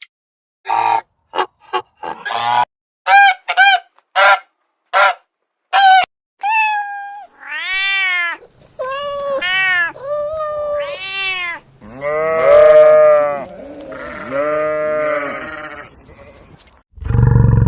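A run of animal calls: a quick series of short, sharp calls for the first six seconds, then longer calls that rise and fall in pitch, repeated several times. A loud, low roar starts just before the end.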